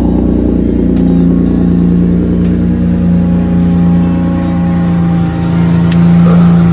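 Car engine running steadily with a constant low hum.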